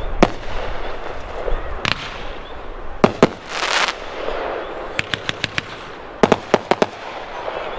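A 500 gram consumer fireworks cake firing shot after shot: single sharp reports early on, a hissing burst in the middle, then two quick volleys of about five shots each.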